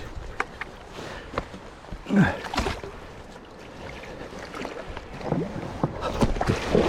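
A paddle dipping and splashing in shallow river water, with the current running steadily. The strokes are irregular, one louder splash comes about two seconds in, and the splashing picks up toward the end.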